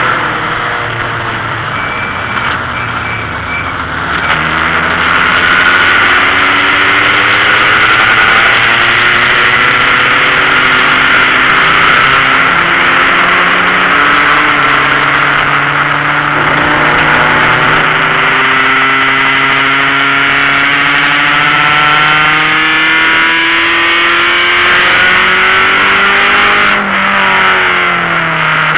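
BMW E28 528e's straight-six engine racing, heard inside the stripped cabin. Its note repeatedly climbs under throttle and drops back, with a long climb in the second half and a fall near the end as it lifts off.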